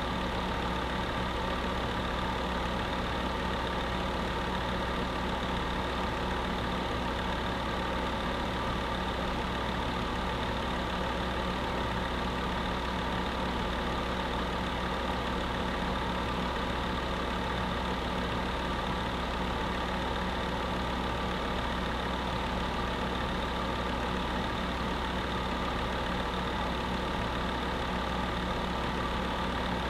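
Electric space heater running steadily: a constant motor hum with an even rush of air, unchanging throughout.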